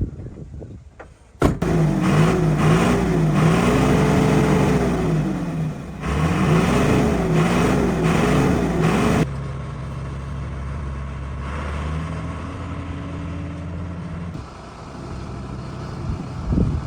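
Freshly rebuilt Dongfeng heavy truck's diesel engine starting up abruptly and revving up and down twice, then settling to a steadier, lower run about nine seconds in.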